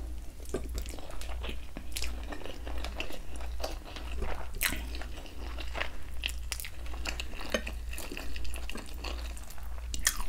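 Close-miked chewing of a mouthful of rice and palm butter eaten by hand, with many small, sharp mouth clicks.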